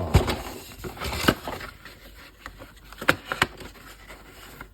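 Toy packaging being pushed into its cardboard box: scraping and rustling with a few sharp knocks, the loudest about a second in and two close together past the three-second mark.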